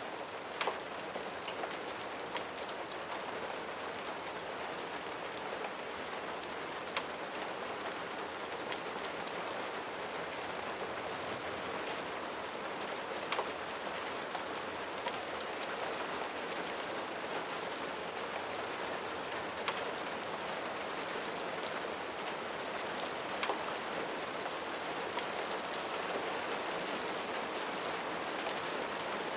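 Steady rain falling, a dense even hiss, with a sharp click or pop every several seconds.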